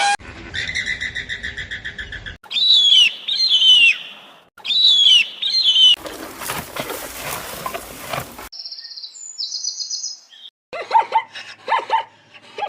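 Several short clips of bird calls cut one after another: a fast pulsed trill, then repeated down-slurred chirps, a stretch of rustling noise around the middle, high thin twittering, and a run of short, lower calls near the end.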